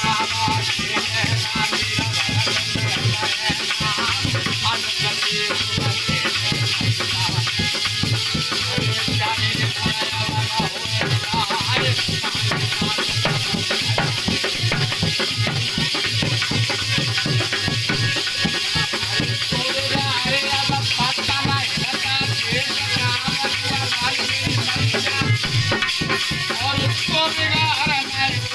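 Aalha folk music: a fast, steady drum beat with jingling rattle-like percussion and a wavering melody line over it.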